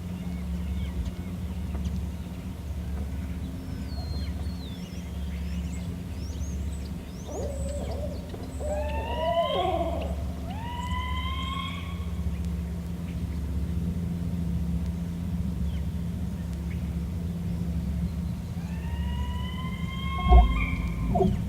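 Barred owl calls: wavering lower hoots in the middle, together with rising, curving higher calls, the strange second call that may come from the owl's mate or a juvenile, which return near the end. A steady low hum runs underneath, and there is a single thump near the end.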